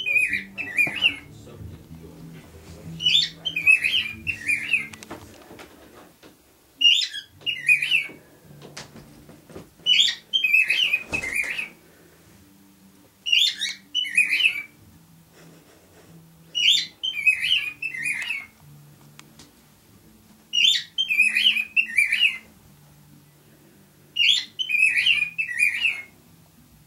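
Male cockatiel singing: about eight short warbled phrases of chirps and whistles, each about a second and a half long and repeated every few seconds.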